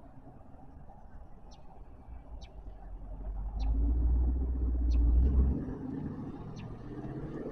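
Chevrolet C8 Corvette's mid-mounted V8 running at low revs as the car drives slowly past. The deep engine note swells to its loudest about halfway through, then eases off as the car pulls away.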